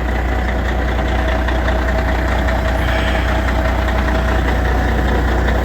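Semi truck's diesel engine idling steadily just after a cold start in −8 degree cold, warming up.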